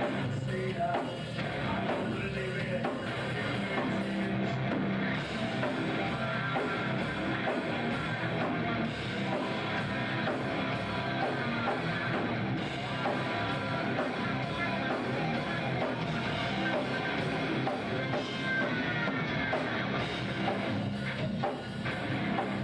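Hard rock band playing: electric guitars over a drum kit, steady and loud throughout.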